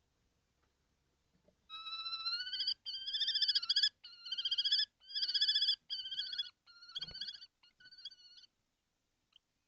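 Common kestrel giving a series of about eight trilled, whining calls, the begging call used at a prey handover; the calls grow shorter and fainter toward the end. A short knock comes partway through.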